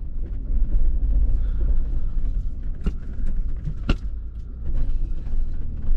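Four-wheel-drive off-road vehicle crawling slowly over a deep rut, heard from inside: a steady low engine and drivetrain rumble with two sharp knocks from the body or suspension, about three and four seconds in.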